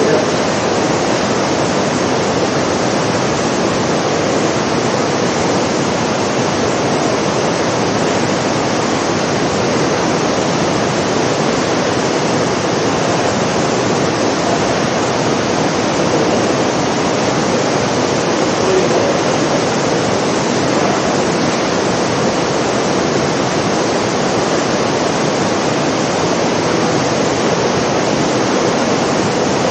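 Rain Room's artificial rain falling as a loud, steady, unbroken downpour.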